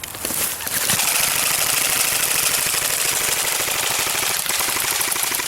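Airsoft rifle firing a long, continuous full-auto burst, a rapid even rattle of shots that grows louder within the first second.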